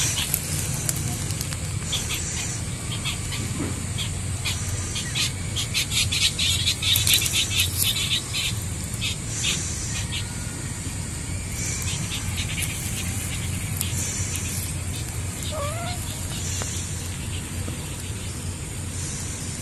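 Small birds chirping in quick runs of short high notes, busiest about six to nine seconds in, over a steady low rumble.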